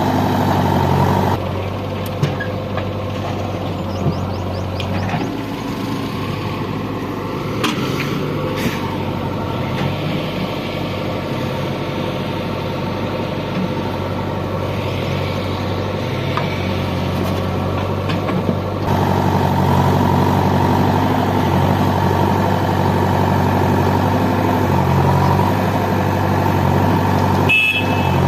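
Heavy diesel machinery engines running steadily. The note drops about a second in and rises again about two-thirds through, with a few sharp clanks along the way.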